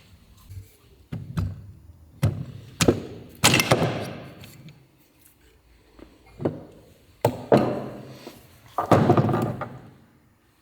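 Irregular knocks and short clatters of metal tools and engine parts being handled and set down. About eight sharp impacts, two of them with a longer rattling tail.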